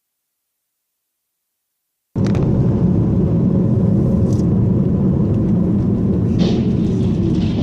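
Silence, then about two seconds in a loud, steady low rumble of vehicle road and engine noise cuts in abruptly, with a few faint clicks over it.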